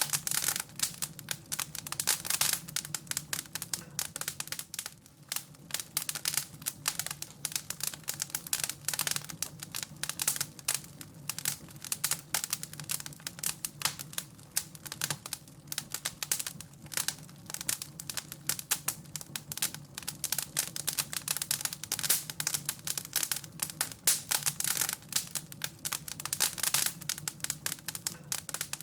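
Wood fire in a fireplace crackling, with dense, irregular pops and snaps over a faint steady low rumble.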